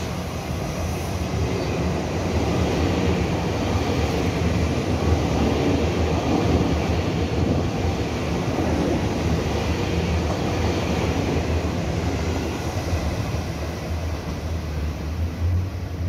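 Taiwan Railway Puyuma express, a TEMU2000 tilting electric multiple unit, running through the station without stopping. A steady rush of wheels on rail and moving air with a low hum builds over the first few seconds and eases a little toward the end.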